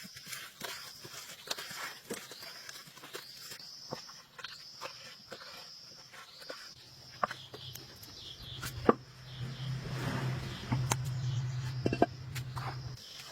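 Repeated high chirps, about one every three-quarters of a second, with scattered clicks and knocks; a low steady hum comes in about seven seconds in and grows louder.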